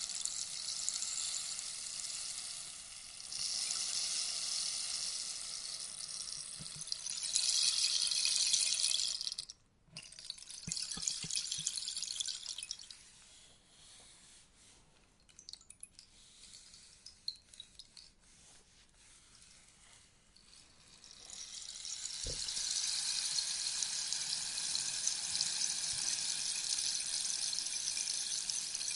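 Rainstick with its pellets cascading through the tube in a fine, rain-like patter of countless tiny ticks. The flow cuts off abruptly about ten seconds in, and a second pour thins out into a few scattered ticks. A fresh cascade swells up past the twenty-second mark and runs on steadily.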